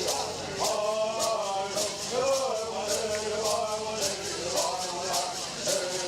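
Bird singers chanting a bird song in unison, with gourd rattles shaken in a steady beat of about two and a half strokes a second.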